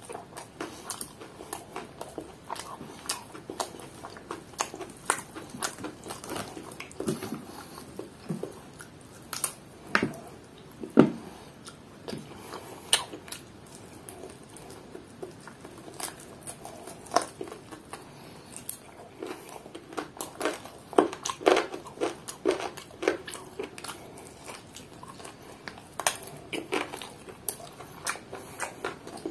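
Close-up chewing and mouth smacks of a man eating fried chicken with his fingers: irregular clicks and smacks, bunched together at times.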